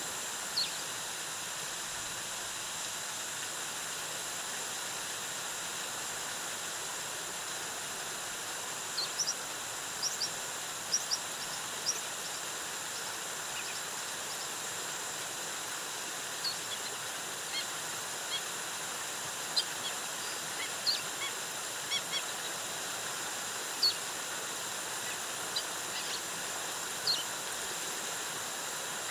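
Steady rush of a rainforest waterfall, with short, high bird chirps scattered over it, most of them from about a third of the way in.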